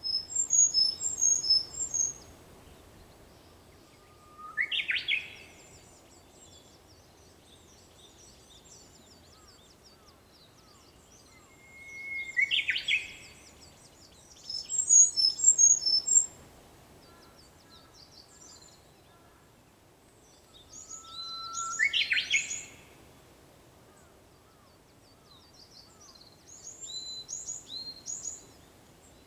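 A Japanese bush warbler sings its 'hoo-hokekyo' song three times, each a held whistle that breaks into a quick rising flourish. Between its songs, other small birds chirp in high, rapid bursts.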